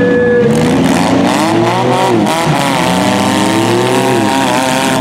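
Minivan engines revving hard under load, their pitch rising and falling again and again as the battered vans shove against each other. A brief steady tone sounds near the start.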